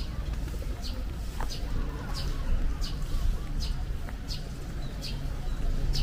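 A bird repeating a short high chirp at an even pace, about every three-quarters of a second, over a steady low rumble.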